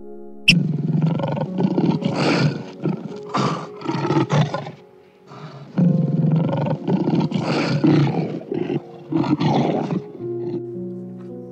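Lion roaring and growling in two long bouts of about four seconds each, with a short break near the middle, over background music.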